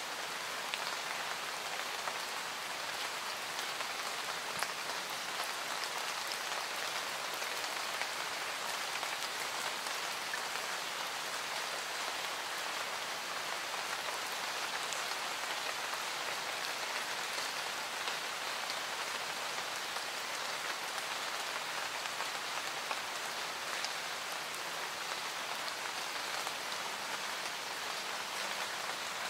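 Recorded steady rain falling, an even hiss of rain with now and then a single sharper drop.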